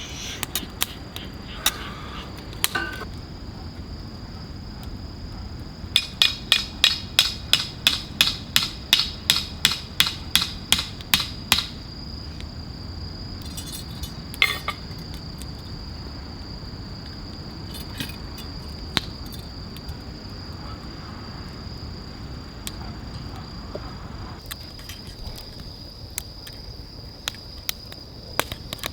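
A steady high insect trill, with a run of about twenty sharp, evenly spaced knocks, three to four a second, lasting about six seconds and starting about six seconds in, like hammering; a few single knocks follow.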